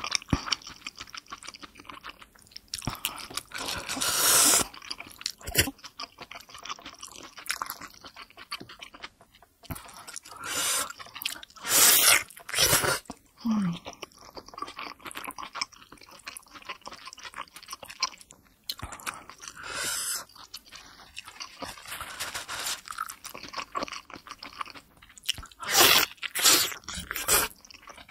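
Close-miked chewing of a large steamed pork momo dumpling (taipo momo), with several louder wet bursts every several seconds.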